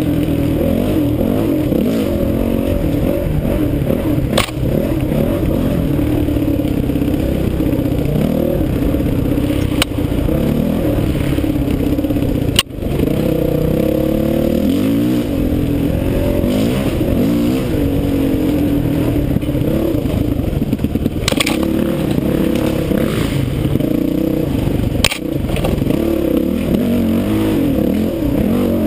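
Honda CRF450X dirt bike's single-cylinder four-stroke engine revving up and down without a break as it is ridden over trail, with a few sharp knocks along the way.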